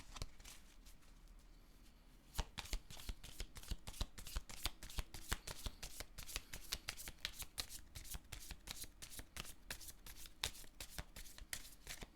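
A deck of tarot cards being shuffled by hand: a quick, continuous run of light card clicks and taps that starts about two seconds in.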